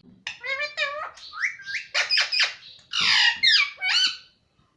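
Pet parrot chattering in a quick run of short, high calls and squawks that glide up and down in pitch, stopping shortly before the end.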